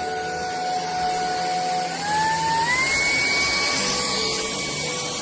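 JELLYPIG cordless stick vacuum's motor running with a steady whine over a suction hiss. About two seconds in, the whine steps up in pitch as the motor is switched from its low speed to a higher setting.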